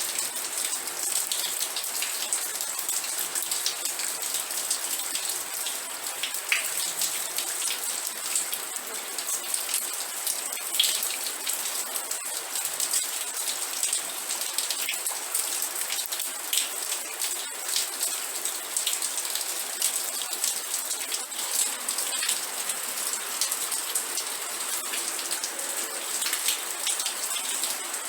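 Steady rain with many close, crisp drop impacts, falling evenly with no let-up.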